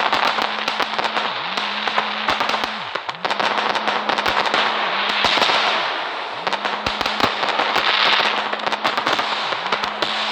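Fireworks going off: fast crackling and sharp pops over a continuous spraying hiss that swells and eases every couple of seconds. A steady low hum runs underneath, briefly dropping in pitch and recovering several times.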